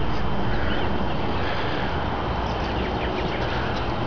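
Ford pickup truck's engine idling steadily.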